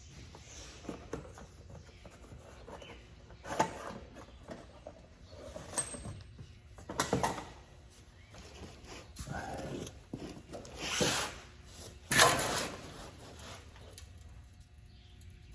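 Intermittent knocks and scrapes of hand work on metal parts, such as fitting a bolt and washer, coming as several separate short noises a few seconds apart, the loudest near the end.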